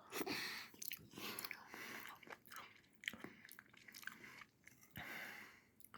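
Faint chewing of a mouthful of mashed potatoes and gravy: soft, irregular wet mouth sounds, with a few light clicks.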